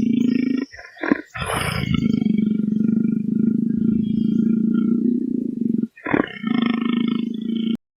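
A large animal's low, rasping growl, drawn out and broken by two short pauses, about a second in and near six seconds in. It stops abruptly shortly before the end.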